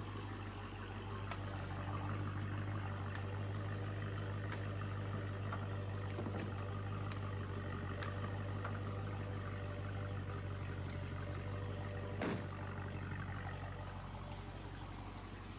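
Car engine idling steadily with a low, even hum. A single sharp knock about twelve seconds in.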